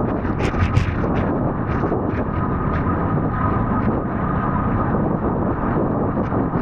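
Wind rumbling on the microphone, with frequent sharp clicks and knocks over it; the strongest knocks come about half a second to a second in.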